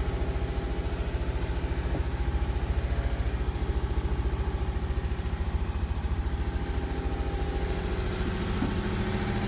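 A third-generation Toyota 4Runner's freshly swapped-in engine idling steadily with an even pulse. The owner is pretty sure it has an exhaust leak.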